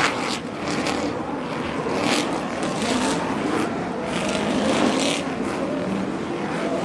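Race-truck engines running and revving, their pitch wavering up and down, with several short hissing surges over the engine noise.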